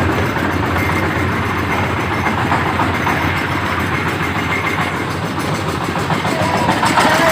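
Engine-driven corn sheller running steadily: constant engine noise under a dense mechanical clatter.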